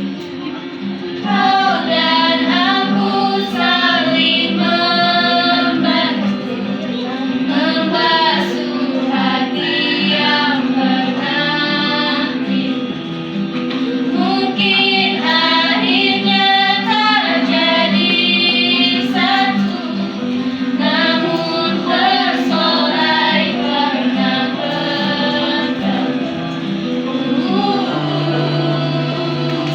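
A woman singing a melody over a steady instrumental accompaniment.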